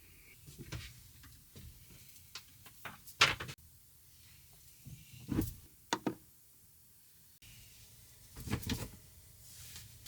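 Intermittent knocks and clatter of things being handled, like doors, cupboards or drawers being worked. The sharpest knock comes about three seconds in, with further clusters near the middle and near the end.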